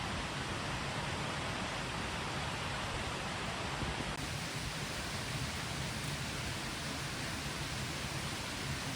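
A small stream babbling and rushing steadily over stones.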